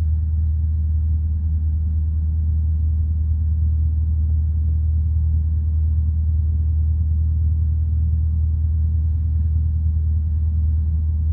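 Single-engine piston light aircraft's engine idling at the runway hold, a steady low drone heard from inside the cockpit.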